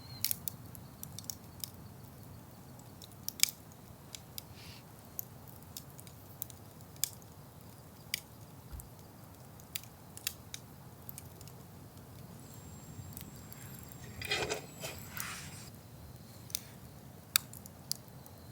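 Campfire crackling, with irregular sharp pops over a low steady background. A brief rustling about fourteen seconds in.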